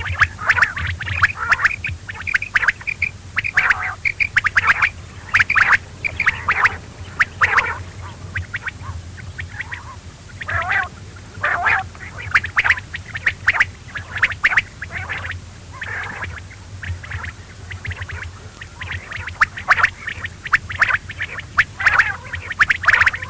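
Quail calling over and over: quick runs of short, sharp notes in repeated bursts with brief pauses, over a steady low hum.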